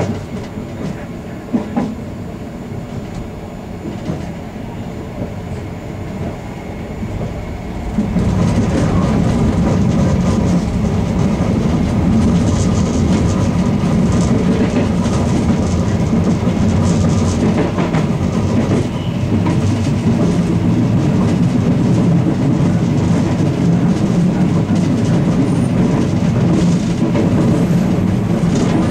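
Ganz-Mavag electric multiple unit running along the line, with the steady rumble of its wheels on the rails heard from inside the rear of the train. The running noise gets louder and fuller about eight seconds in, then stays steady.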